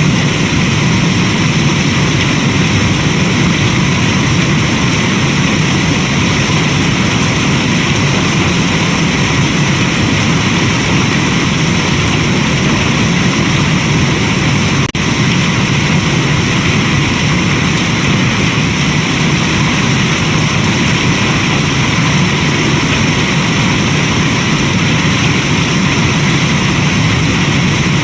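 Steady, even rain noise from a rain and fireplace ambience track, with one brief dip in level about halfway through.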